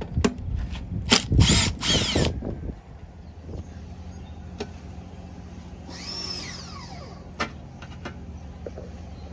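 Power drill or driver run in short bursts, loudest about a second in, then run once more briefly near the middle with its whine winding down in pitch, as it takes out the lawnmower coil pack's mounting screws. Sharp clicks of tools and parts being handled come between the bursts.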